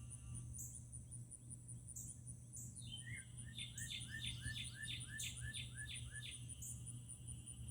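A songbird singing a fast run of about ten repeated slurred notes, starting about three seconds in and lasting some three and a half seconds. A steady, evenly pulsing high-pitched trill continues underneath.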